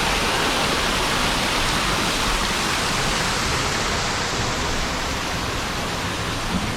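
Steady rush of water, like a waterfall or a water channel along the boat ride, easing a little about two-thirds of the way through.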